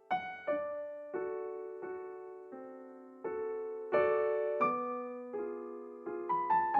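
Slow solo piano background music: single notes and chords struck about once a second, each ringing out and fading, with a few quicker notes near the end.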